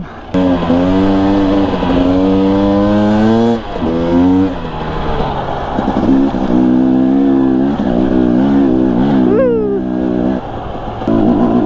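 Two-stroke dirt bike engine revving as it is ridden, pitch climbing and falling with the throttle. Brief drops about 4 and 10 seconds in, where the throttle is rolled off.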